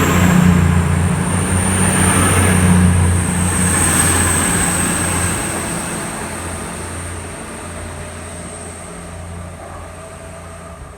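Class 222 Meridian diesel-electric multiple unit pulling out and passing, its underfloor diesel engines running with a steady low hum and a thin high whine. The sound fades steadily as the train moves away.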